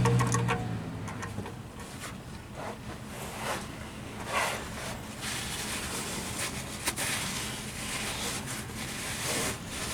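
A passing car's engine hum fades out in the first second or so. Then come faint, scattered rubbing and scraping noises and a single sharp click about seven seconds in, from hands and tools working under the truck.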